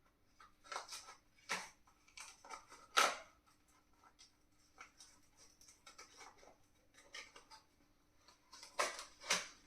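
Product packaging being handled and opened by hand: irregular rustles, crinkles and clicks, the loudest about three seconds in and a few more near the end.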